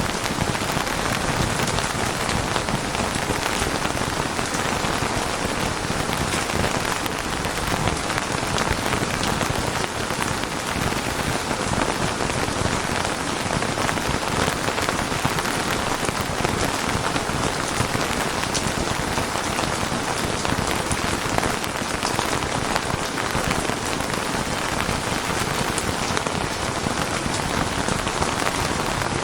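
Steady rain falling on a surface, a dense even patter with individual drops ticking through it.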